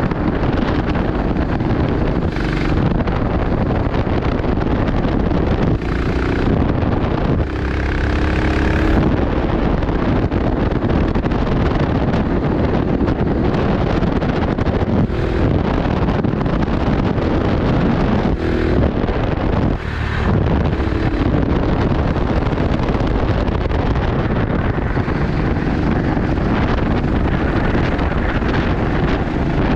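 Racing kart engine running hard at speed on track, heard onboard through heavy wind buffeting on the microphone. The engine note shifts briefly a few times.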